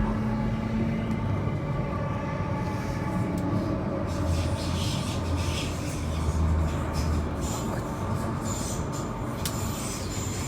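Queensland Rail IMU 100 electric multiple unit running along the track, heard from inside the carriage: a steady rolling rumble with a faint steady hum and some rattling from the car.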